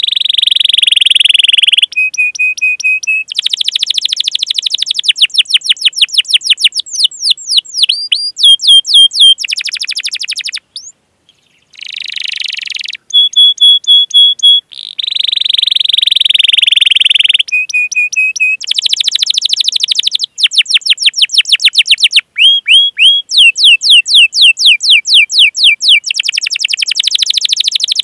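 Domestic canary singing a long, loud song of changing phrases: fast trills of rapid down-sweeping notes, buzzy rolled passages and short runs of steady whistled notes, with a brief break about eleven seconds in.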